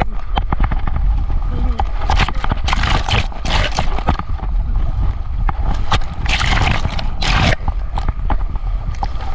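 Rushing, splashing water from a water-park slide ride, in surges, with a deep rumble of wind buffeting the microphone. Voices can be heard under it.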